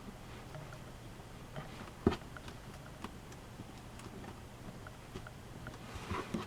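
Origami paper being handled and folded: scattered small crackles and ticks of creasing paper, with one sharp, louder crack about two seconds in and a few more crackles near the end.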